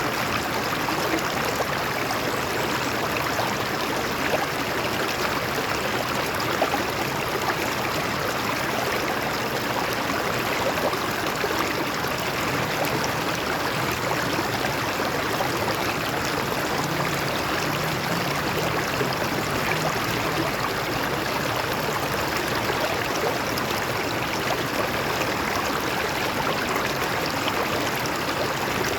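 Water flowing over rocks in a stream, a steady rushing and gurgling.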